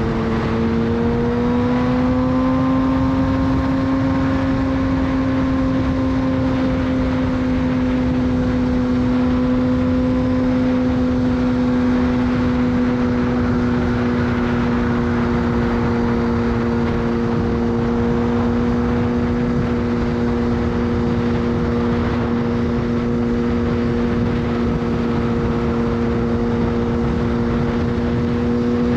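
Suzuki GSX-R 600 inline-four with a full de-cat Yoshimura exhaust, cruising at a steady highway speed. The engine note climbs a little in the first few seconds, then holds steady over continuous wind rush.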